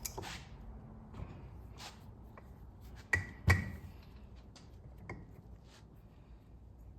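Scattered light metal clicks and clinks from hand-starting ring gear bolts on a Sterling 10.5 axle's gear and carrier. Two sharp metallic knocks with a brief ring come a bit over three seconds in.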